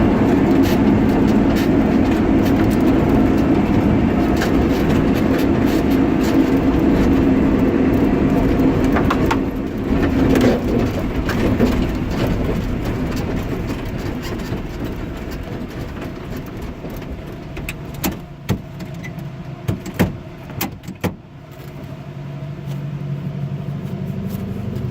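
Blown 540 cubic-inch big-block Chevy V8 with an 8-71 supercharger, heard from inside the car, running loud and steady. The engine note drops away about nine seconds in, a handful of sharp knocks come through the cabin about three-quarters of the way in, and a lower steady engine note comes in near the end.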